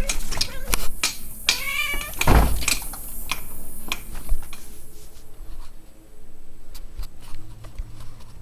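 Two loud, wavering, pitched cries, with many sharp clicks and knocks, fading somewhat after about five seconds.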